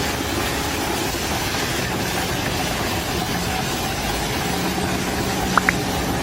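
A steady engine running, with a constant noisy rumble. Two brief high chirps come near the end.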